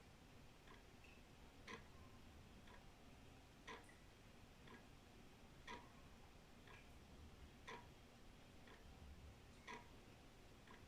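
Old wall clock ticking steadily, about one tick a second, with louder and softer ticks alternating in a tick-tock rhythm.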